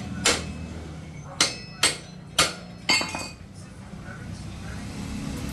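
Five sharp hammer blows on metal, each with a short metallic ring, over a low steady background hum.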